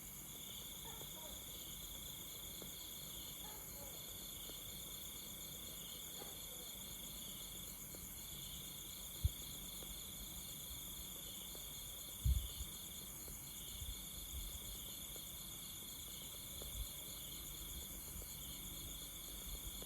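Night insects calling steadily: one high trill that breaks off and restarts every few seconds over a continuous, higher pulsing buzz. A few short low thumps stand out, the loudest about nine and twelve seconds in.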